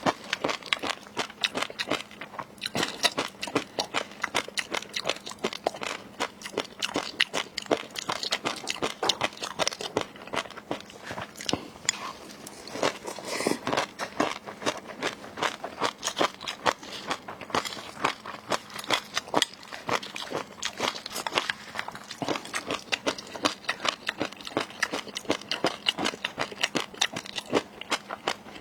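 Close-miked eating: rapid, continuous crunching and chewing of seafood, many crisp bites and crackles in quick succession.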